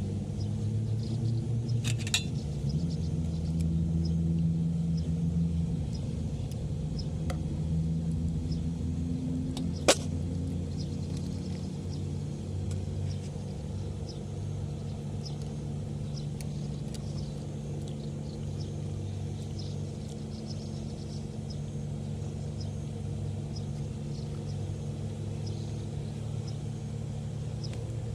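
A steady low engine-like rumble with a few light clicks, and one sharp click about ten seconds in.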